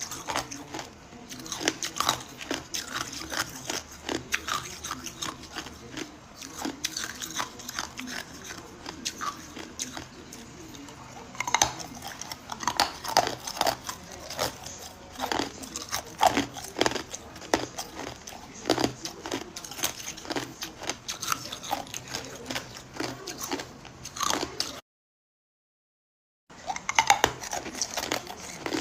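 Hard ice cubes being bitten and chewed up close, with a continuous run of irregular sharp crunches and cracks. About 25 seconds in the sound cuts out completely for over a second, then the crunching resumes.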